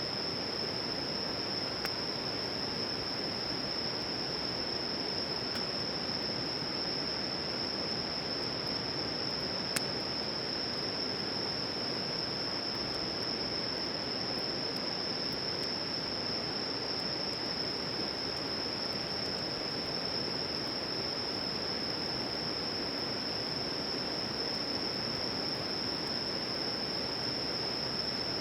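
Night campsite ambience: a steady rushing noise with a constant high-pitched insect trill over it, and two faint snaps, about two seconds in and again near ten seconds.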